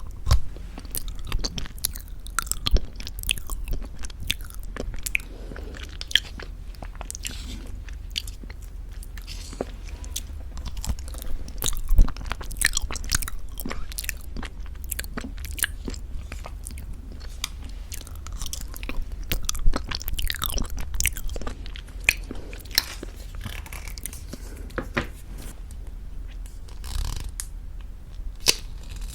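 Close-miked mouth sounds of eating very thick Greek yogurt with honey: sticky chewing and smacking, with many sharp clicks throughout and a few louder ones.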